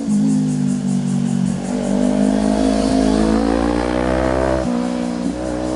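Motorcycle engine accelerating hard, its pitch climbing steadily, dropping abruptly for an upshift about three-quarters of the way through, then climbing again.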